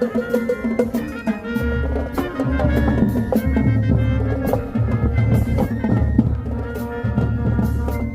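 High school marching band playing, brass over a drumline with regular drum strokes; a heavy low bass line comes in about a second and a half in.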